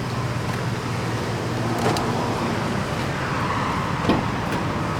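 2004 Ford F-150's 5.4-litre V8 idling steadily, with two sharp clicks, about two and four seconds in, as the truck's doors are unlatched and opened.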